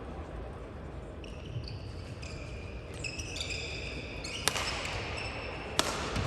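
Badminton rally: shoes squeaking in short high chirps on the court floor, then two sharp racket hits on the shuttlecock about a second and a half apart. A steady low hall hum runs underneath.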